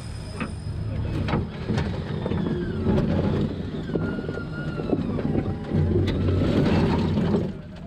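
Ultra4 off-road race car's engine running under load as the car inches over rock, with scattered knocks and clanks. The engine grows louder through the middle and cuts back abruptly just before the end.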